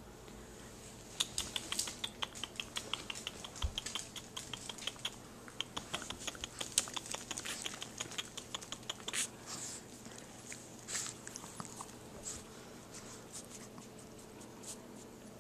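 Quick run of small wet clicks and smacks from a Chihuahua and her two-week-old puppies at the mouth, starting about a second in, several a second, and thinning out after about nine seconds.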